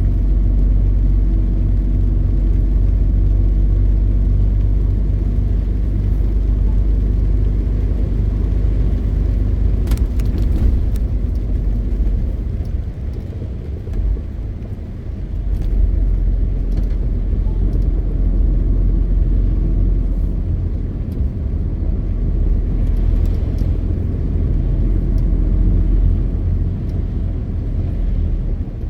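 MAN TGX 520 truck's diesel engine running steadily under way, a deep low drone. Partway through, the drone drops off for a few seconds, then picks up again, and a few sharp clicks come about a third of the way in.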